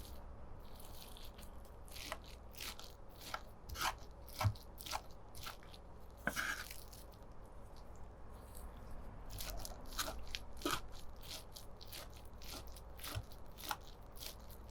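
Close-up food preparation for chicken nuggets: a series of irregular small crunches and taps, roughly one or two a second, with a brief rustling scrape a little past the middle.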